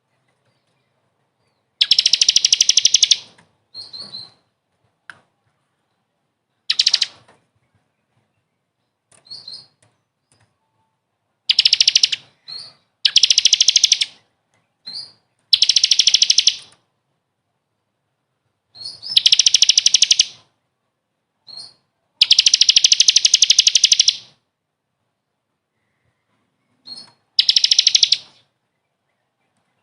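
A small songbird singing fast, high-pitched trills in bursts of one to two seconds, with short single chirps between them and silent gaps. It is a birdsong recording of the kind played to train caged songbirds.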